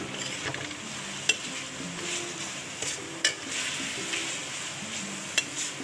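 Chicken sizzling in oil in a metal kadai, being fried until it turns white, while a perforated slotted spoon stirs and scrapes it, with three sharp clinks of the spoon on the pan: about a second in, in the middle and near the end.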